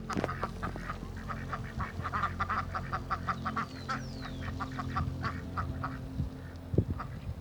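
Ducks quacking, a quick run of short calls several times a second, with a brief high falling chirp from another bird about four seconds in.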